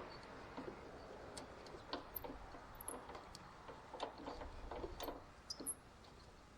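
Faint, irregular clicks and clinks of small metal washers being picked through and handled.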